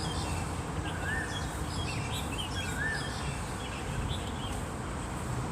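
Small birds chirping outdoors. One call, a short rising-and-falling whistle, comes about every second and a half, and scattered higher chirps fall around it. Under them runs a steady low rush of wind noise.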